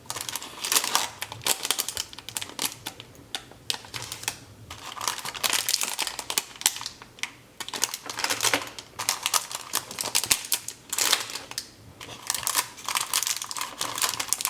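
Crinkling and clicking of plastic candy wrappers being handled, in quick clusters with short pauses between them.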